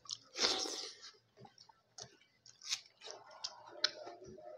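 Close-up chewing of a mouthful of fish and rice, with sharp wet mouth clicks and smacks every second or so. A loud breathy rush about half a second in is the loudest sound.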